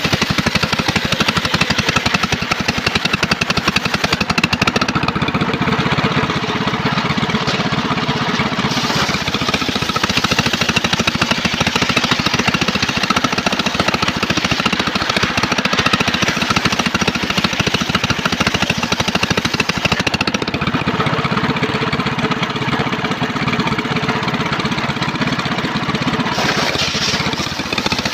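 Engine-driven homemade circular sawmill running steadily, its engine chugging with a fast, even pulse while it saws a trembesi log. The higher hiss drops away twice for several seconds, about five seconds in and again past twenty seconds.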